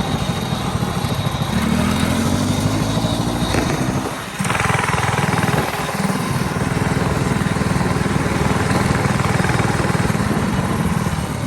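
Small single-cylinder mini bike engine running hard. Its pitch rises as it revs up, it drops briefly about four seconds in, then it holds a steady high rev.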